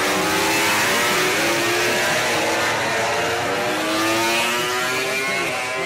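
Engines of several MotoGP racing motorcycles at high revs, overlapping, their pitch rising and falling as they accelerate and change gear.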